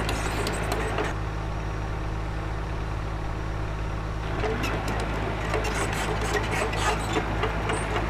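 Excavator diesel engine running steadily, with scraping and clicking over the first second and again through the second half.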